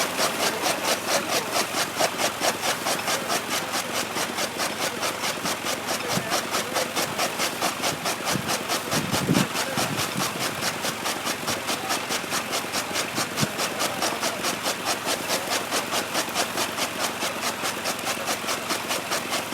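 Tractor's diesel engine running at a steady speed while compacting chopped maize fodder for silage, its exhaust beat an even, rapid pulse. A brief louder swell comes about nine seconds in.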